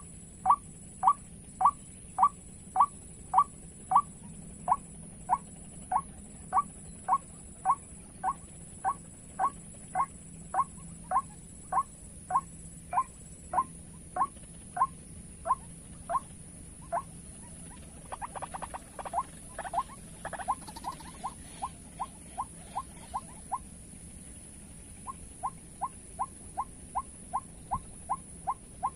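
White-breasted waterhen (ruak-ruak) calls played as a trapping lure: short, sharp notes repeated about two a second in a long, regular series. The series pauses twice, and about two-thirds through there is a brief jumble of overlapping calls.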